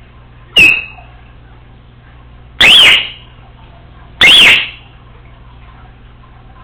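Congo African grey parrot making a short sharp chirp, then two loud whistled calls about a second and a half apart, each rising and then falling in pitch.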